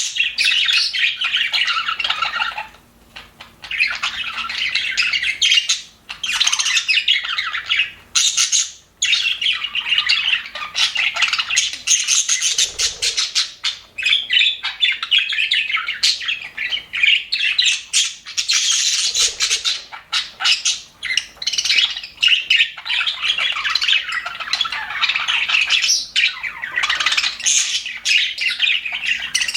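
Budgerigars chattering and warbling together, with rapid chirps and squawks that go on almost without a break.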